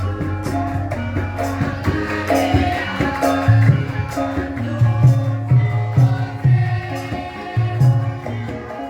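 Live gamelan ensemble playing lengger dance accompaniment: pitched metal notes over low drum strokes and rattling percussion in a steady rhythm.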